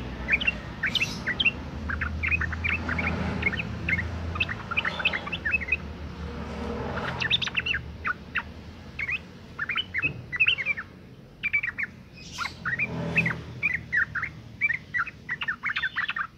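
Yellow-vented bulbul (trucukan) chirping in quick runs of short notes, with a short pause about ten seconds in. It is a female in breeding condition calling.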